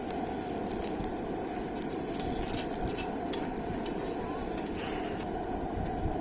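Beef steak sizzling in a pan on a portable butane camping burner: a steady frying crackle with small pops, and a short louder hiss about five seconds in.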